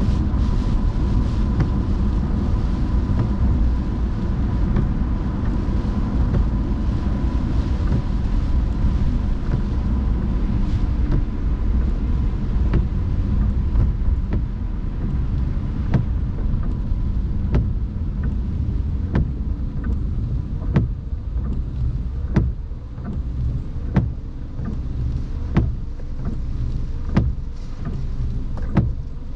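A car driving on a wet road in the rain: a steady low rumble of tyres and road noise. In the second half a short, sharp tick comes about every second and a half.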